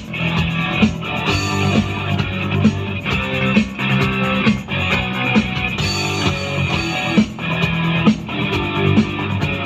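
Rock band playing an instrumental passage without vocals: strummed guitar chords over bass and drums in a steady beat.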